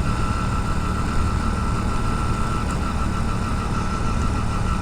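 Motorcycle engine running steadily while riding, with wind and road noise and a steady high whine over it.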